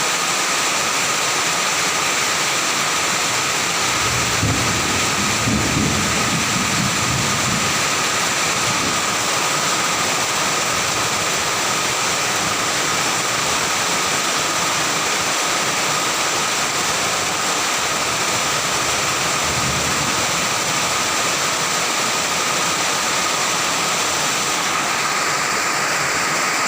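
Very heavy rain with strong wind, a loud, steady hiss. A low rumble comes in about four seconds in and lasts a few seconds, with a shorter one later.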